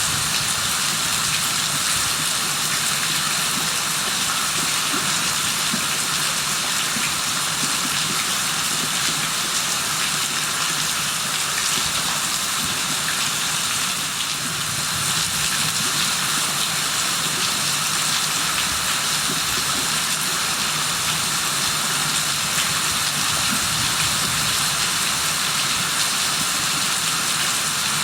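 Rain falling steadily, an even, dense hiss that holds at the same level throughout.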